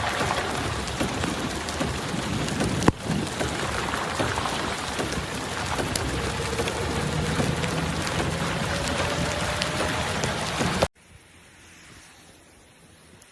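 Heavy rain pouring down, a dense steady hiss full of small drop impacts, with one sharp knock about three seconds in. Near the end it cuts off suddenly to a much quieter background.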